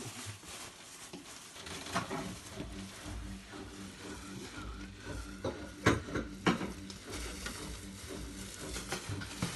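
Household objects being handled and set down: rustling and a few sharp knocks, the loudest two about six seconds in, over a steady low hum.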